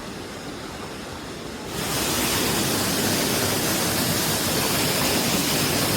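Rushing water of a waterfall or river rapids, a steady even roar that jumps suddenly louder a little under two seconds in.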